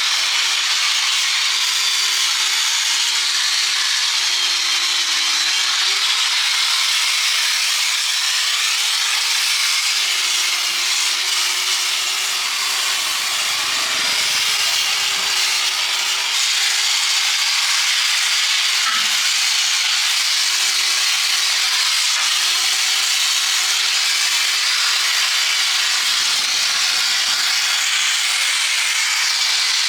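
Handheld power tool working steel, a continuous harsh grinding hiss over a wavering motor hum, as in rust removal on a truck chassis.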